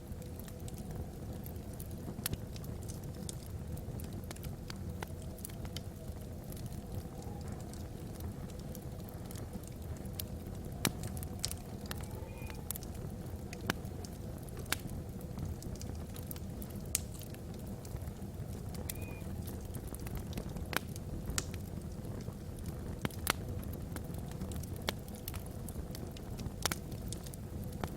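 Wood fire burning in a fireplace: irregular sharp crackles and pops from the logs over a steady low rumble.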